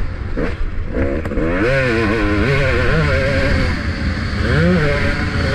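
Motocross bike engine revving up and down repeatedly as the throttle is opened and closed, heard from the rider's helmet-mounted camera with heavy low wind rumble.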